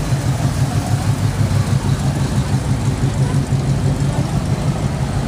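Car engine running with a steady, pulsing low rumble.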